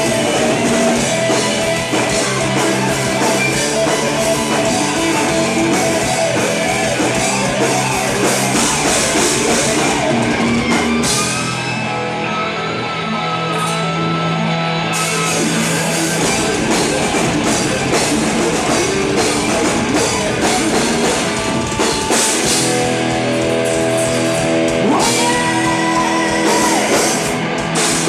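Rock band playing live with electric guitar and drum kit. About halfway through, the drums and cymbals drop out for a few seconds under long held notes, then the full band comes back in.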